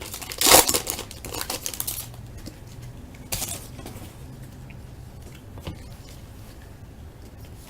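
A baseball card pack being opened: the wrapper crinkles and rustles, loudest in the first two seconds. The cards are then handled, with a few soft clicks.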